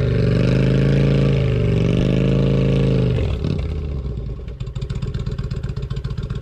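2007 Kawasaki Nomad cruiser's V-twin engine revving under load as the heavy bike is driven out of soft mud, its pitch wavering. About three seconds in it drops back to a steady, evenly pulsing idle.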